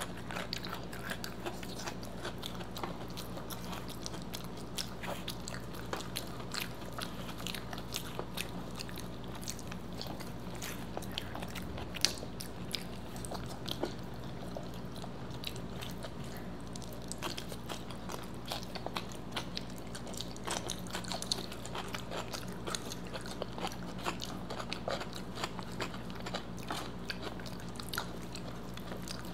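Close-up eating sounds: biting, chewing and soft crunches of food, with frequent small mouth clicks and one sharper click about twelve seconds in, over a steady low hum.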